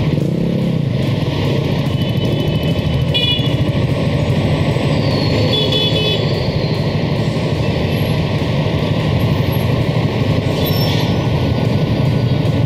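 A Bajaj Boxer X150's single-cylinder engine runs at low speed in stop-and-go traffic, with other motorcycles and trucks rumbling around it. Other vehicles give several short horn toots, the clearest about three seconds in and again around six seconds.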